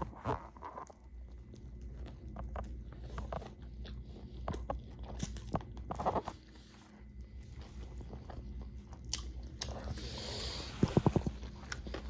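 A person biting into and chewing a chopped cheese sandwich, with irregular crunches and mouth clicks and a quick run of clicks about eleven seconds in.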